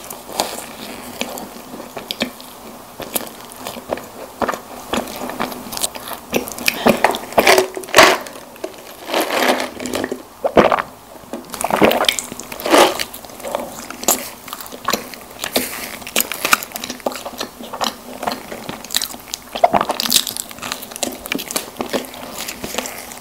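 Close-miked biting and chewing of soft snack cakes, with irregular small crunches, clicks and moist mouth sounds; a few louder bites stand out.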